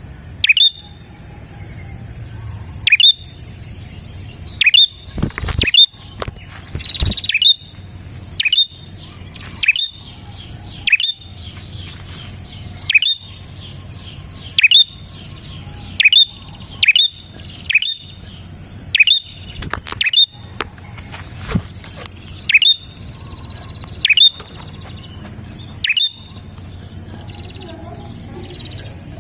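Prenjak calling: loud, sharp chirps that sweep down in pitch, repeated about once a second, over a steady high-pitched hiss.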